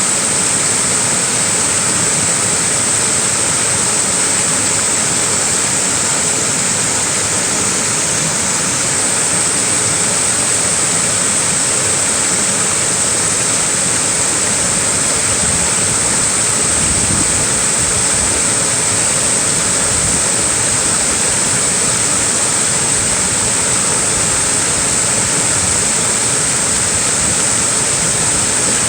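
Small waterfall splashing: a steady, even rush of falling water, with a bright hiss on top.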